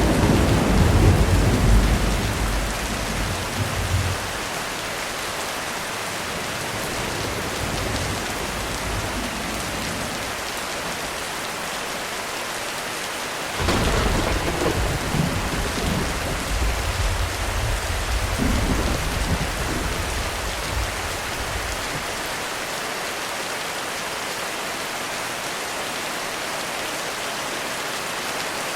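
Heavy rain falling steadily, with thunder: a rumble dying away over the first few seconds, then a sudden thunderclap about halfway through that rolls on for several seconds before fading.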